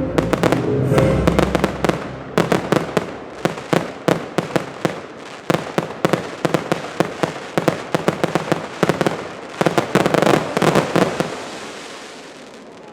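Fireworks display: a dense, rapid run of bangs and crackles that thins out and fades near the end. Music plays underneath during the first second or two.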